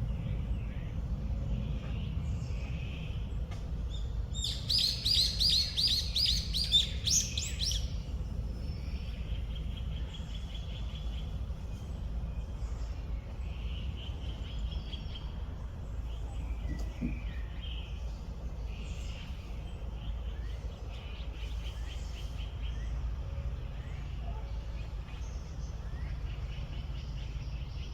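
Wild birds singing. A loud burst of rapid repeated high notes comes about four and a half seconds in and lasts about three seconds, and fainter trills recur throughout over a steady low background rumble.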